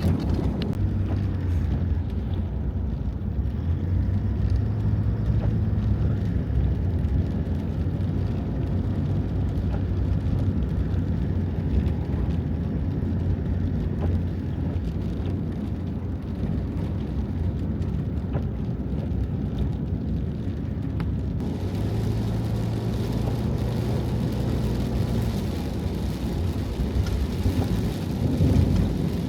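Steady low rumble of rain and a vehicle heard from inside a van, with a faint hum that comes and goes. About two-thirds of the way through, a hissier layer of rain noise comes in.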